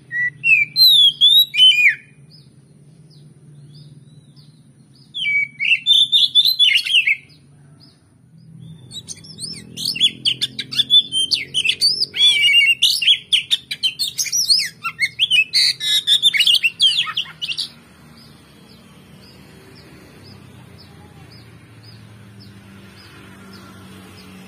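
Oriental magpie-robin (kacer) song: loud, rapidly varied whistles and chirps. There are three outbursts: a short phrase at the start, another about five seconds in, and a long run from about nine to eighteen seconds. Between and after them is a faint, evenly repeated high ticking over a low hum.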